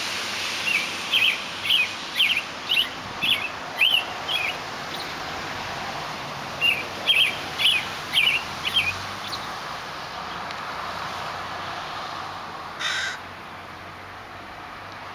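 A bird calls in two runs of short, sharp notes, about two a second, over a steady outdoor hiss. One brief harsh sound comes near the end.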